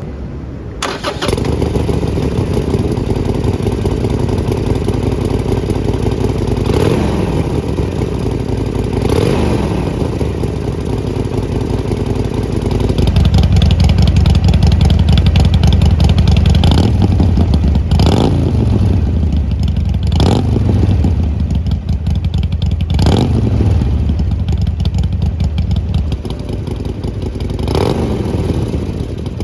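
Harley-Davidson Sportster's air-cooled V-twin running through a Jekill & Hyde valve-controlled exhaust, idling with about seven short blips of the throttle. Roughly halfway through the exhaust gets clearly louder and deeper for over ten seconds, then drops back a few seconds before the end, the switch between its quiet and loud exhaust modes.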